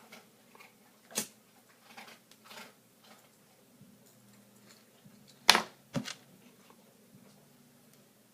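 Small hard objects being handled on a work surface: a few sharp clicks and knocks with faint rustling between. The loudest knock comes about five and a half seconds in, with another half a second later.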